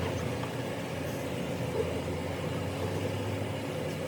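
A steady machine hum with a constant low pitch.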